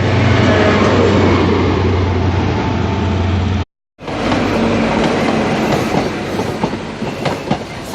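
Diesel train moving through the station: a steady low engine hum under rushing rail noise, then, after a brief dropout about halfway, wheels clacking over the rail joints.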